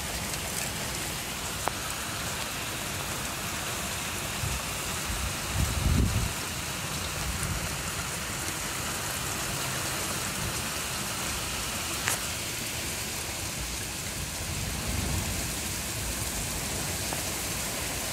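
Steady rain falling, an even hiss with a few faint ticks of drops, and a couple of low swells partway through and near the end.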